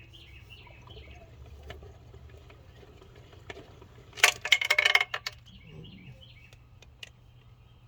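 Birds chirping in the background. About four seconds in, a loud burst of rapid clicking and clattering lasts about a second.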